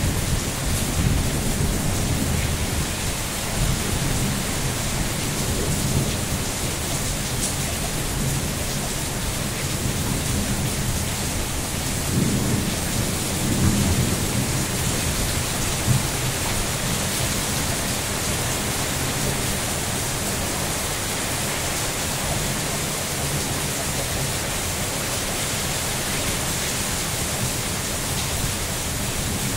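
Steady heavy rain, an even hiss throughout, with a low uneven rumble underneath that swells around the middle.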